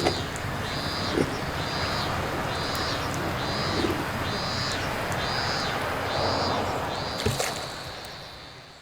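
Outdoor pond ambience: a steady noisy background with a high-pitched call repeating about once a second, and a few faint knocks. It fades out near the end.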